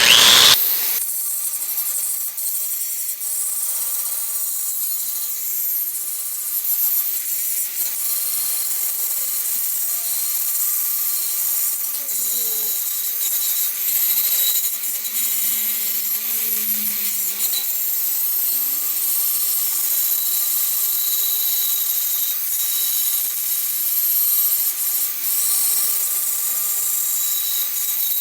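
Power grinder working sheet metal, a steady abrasive hiss under a constant motor whine.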